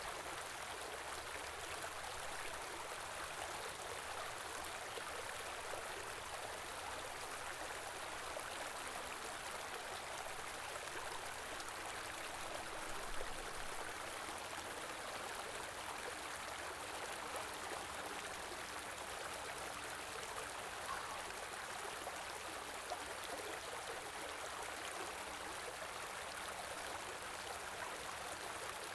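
A stream running steadily, a continuous even rush of flowing water, with a single brief tap about halfway through.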